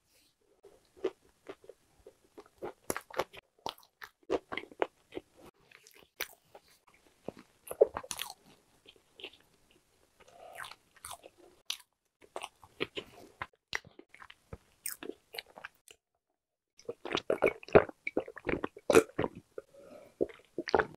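Close-miked chewing of a walnut cake: short crunches and moist mouth sounds as the walnut pieces break between the teeth, coming in irregular bursts. The crunching grows denser and louder near the end.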